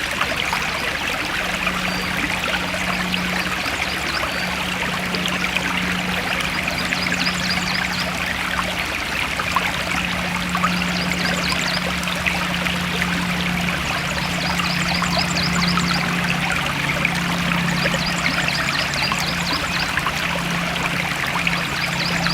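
A forest stream trickling and splashing steadily, a constant rush of water. Runs of quick, high chirps come and go several times over it, and a low steady drone lies underneath.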